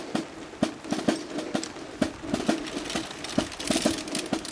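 Irregular dull taps, several a second: large raindrops hitting a surface close to the microphone in heavy rain.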